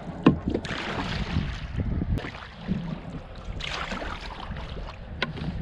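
Canoe being paddled: bursts of water swish from paddle strokes about every three seconds, with a few sharp knocks and a low wind rumble on the microphone.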